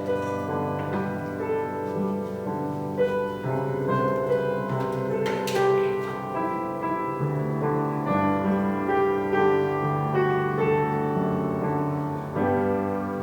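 Piano playing slow chords that change about once a second, with one sharp click about five and a half seconds in.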